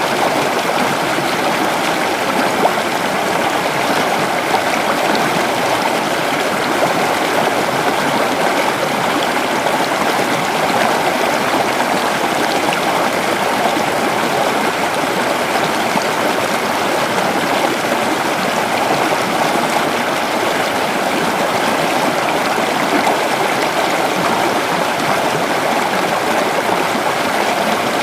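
A creek flowing over rocks, a steady rushing and babbling of water that stays even throughout.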